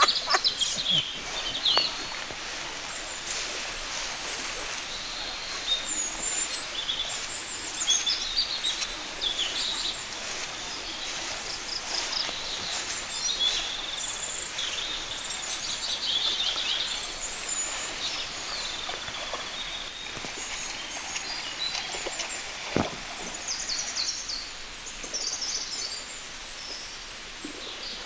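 Several birds chirping and trilling on and off over a steady background hiss, with one brief low knock late on.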